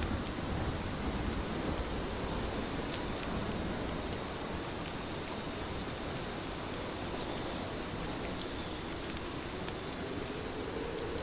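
Heavy rain falling steadily, a dense even hiss scattered with sharp drop ticks. A low rumble fades out within the first second or so.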